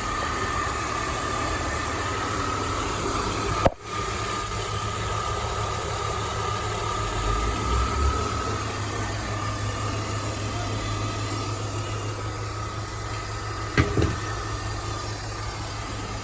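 BMW X5 engine idling steadily with the A/C compressor running on its new clutch bearing, with no bearing noise, and a faint steady whine over the idle. There is a short sharp break about four seconds in and a click near the end.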